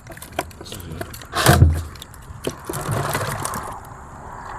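A fishing net full of tilapia being handled, with scattered clicks, rustling and scraping. A loud thump comes about a second and a half in.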